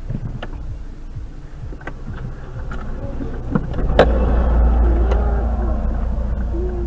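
A stopped car's engine idling, heard from inside the cabin, with scattered clicks and a sharp knock about four seconds in, after which a heavier low rumble sets in.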